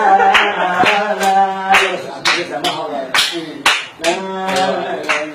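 Rhythmic hand-clapping, about two claps a second, over a sustained pitched tone of music.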